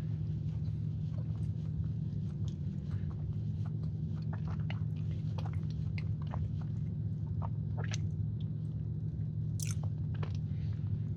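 Close-up chewing of a soft, cakey chocolate sandwich cookie with marshmallow filling: wet mouth clicks and smacks scattered through, over a steady low hum.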